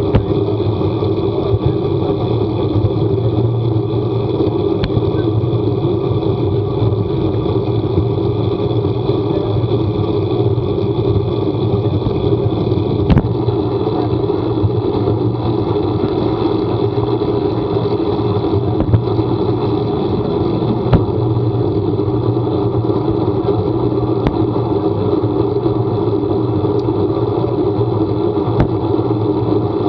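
A vehicle on the move: steady engine and road noise that does not change, with a few sharp ticks scattered through it.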